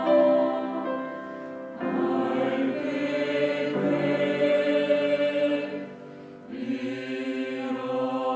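Church choir singing a hymn in full harmony, holding long chords. The sound dips twice between phrases, about a second in and about six seconds in.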